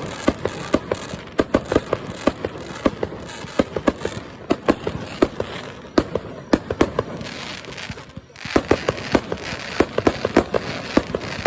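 Fireworks crackling and popping: a dense, irregular run of sharp pops, several a second, over a steady hiss, with a brief lull about eight seconds in.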